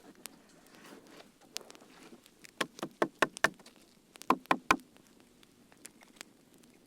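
Wood campfire crackling: scattered sharp pops and snaps over a soft hiss of burning, with two quick runs of loud pops about two and a half and four and a half seconds in.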